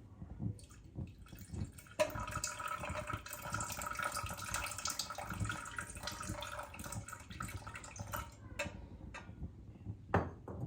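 Kitchen tap turned on sharply, water running steadily for about six seconds and then shut off. There are light knocks before it and a sharp click near the end.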